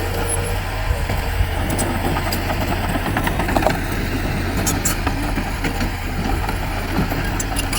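Heavy diesel earthmoving machinery running steadily with a deep low hum, and scattered short clicks and clanks on top.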